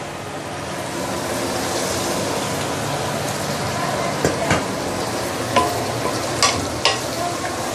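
Chicken and potato pieces sizzling in curry paste in a pan while being stirred, with a few sharp knocks and scrapes of the spatula against the pan in the second half.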